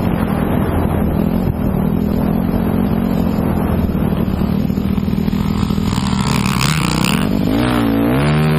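Motocross bike engine running steadily, with a short hiss about six seconds in. Near the end the engine pitch rises and falls with the throttle.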